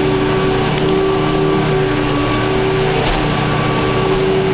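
Vacuum cleaner running steadily on carpet, a loud constant motor hum with a few fixed tones over a rushing air noise.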